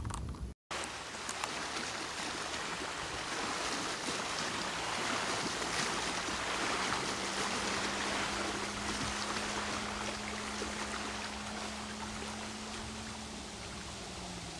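Steady rush of wind and water at a lakeshore, after a brief cut-out in the sound near the start. A faint steady hum comes in about halfway and drops slightly in pitch near the end.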